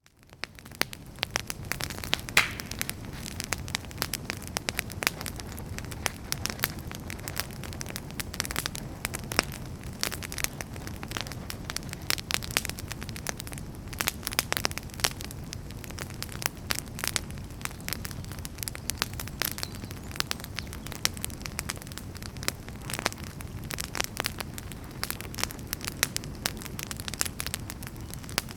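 Wood fire crackling and popping in a fireplace: many sharp cracks and snaps, several a second, over a steady low rush of the flames, fading in over the first second.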